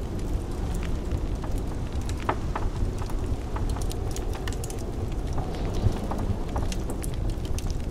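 Wood fire crackling, with irregular sharp snaps and pops, over a steady low rumble of blizzard wind.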